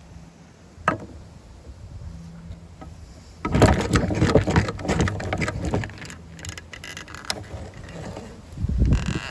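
Meat grinder grinding soap. A faint steady hum and a single click come first; then, about three and a half seconds in, a dense run of cracking and crunching starts, thins out after a few seconds, and flares again near the end.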